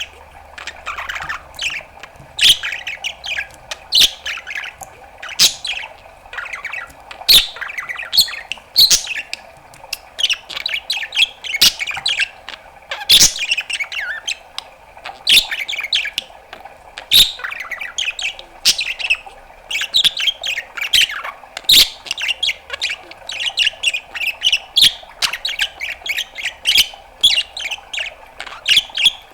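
Budgerigar chattering without a break: a quick, busy stream of warbles, chirps, squawks and sharp clicking pops.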